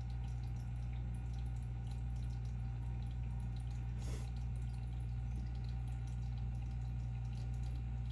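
Aquarium filter running: water trickling and dripping over a steady low hum, with one short louder rush of water about four seconds in.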